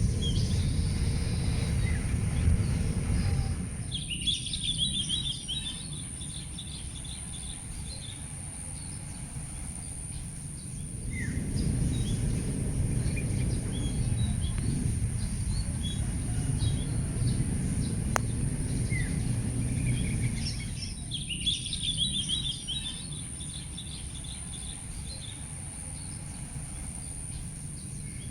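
Small birds chirping in short clusters, twice, over a low outdoor rumble that swells and fades, with a steady high-pitched whine underneath.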